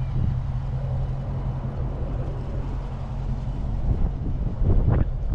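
Steady low idle of a V8 engine, the 2018 Dodge Charger Scat Pack's 6.4-litre Hemi, with a few short gusts of wind on the microphone near the end.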